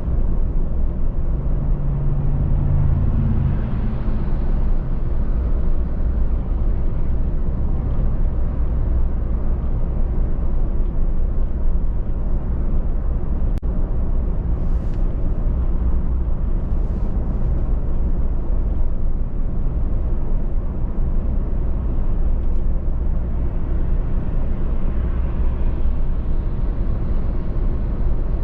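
Car driving at road speed: a steady low rumble of tyres and engine, with a brief deeper hum a couple of seconds in.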